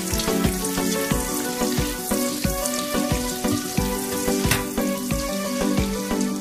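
Sliced garlic and butter sizzling in a stainless steel frying pan as a spatula stirs them, over background music with a steady beat.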